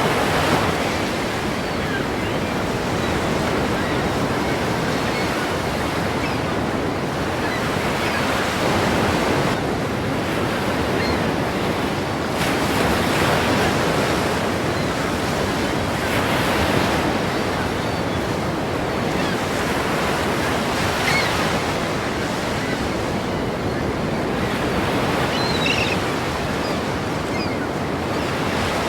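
Ocean waves crashing against a pier: a continuous wash of surf that swells as each wave breaks, every few seconds.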